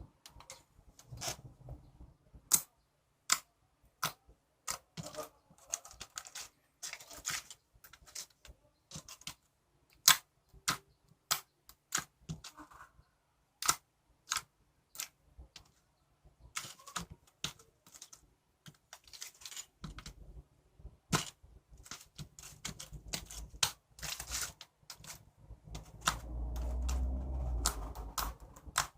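Irregular sharp clicks and taps of hard objects, a few a second with short pauses, with a low rumble underneath in the last third.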